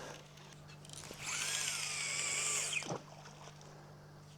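Baitcasting or spinning fishing reel cranked fast for about a second and a half, a gear whir that wavers in pitch with the cranking, reeling in slack line after a hooked catfish has come off.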